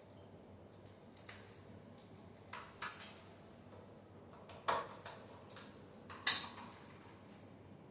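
A few light, scattered clicks and knocks, the two sharpest about halfway through and again near the end.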